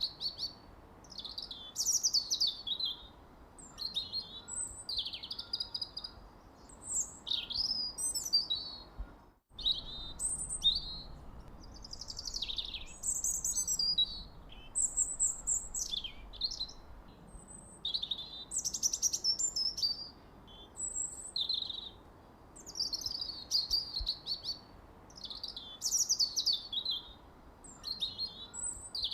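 Songbirds chirping and trilling in quick, high-pitched phrases with fast up-and-down sweeps, a new phrase every second or two over a faint steady hiss. About nine seconds in the sound cuts out for a split second.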